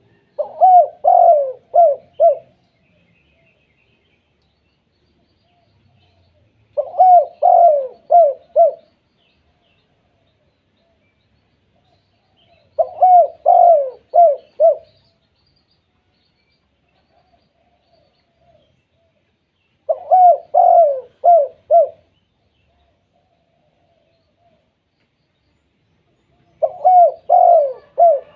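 Spotted dove (tekukur) cooing: the same phrase five times, about every six and a half seconds, each a couple of drawn-out coos followed by a few quick short notes.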